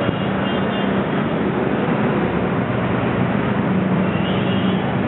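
Road traffic: a steady, dense noise of vehicles with the low hum of engines running throughout.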